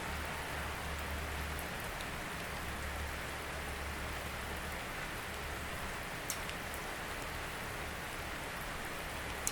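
Steady rainfall, with a few sharper drops striking close by, one about six seconds in and another near the end. A low rumble underneath fades out about halfway through.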